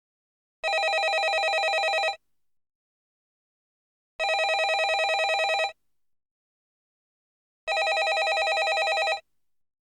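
Landline telephone ringing with an electronic warbling ring: three rings of about a second and a half each, with two-second silences between them.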